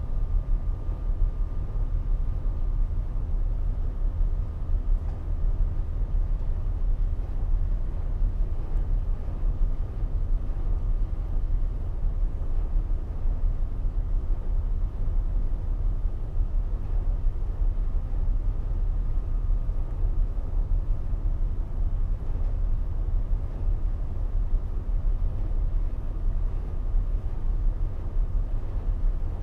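Ship's diesel engine running steadily with a low, even rumble, as a tanker is towed out from the jetty.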